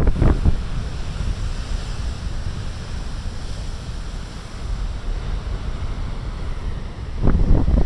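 Big ocean waves breaking and washing against a rocky shore, a steady rushing surf. Wind buffets the microphone as a low rumble that grows louder in the last second.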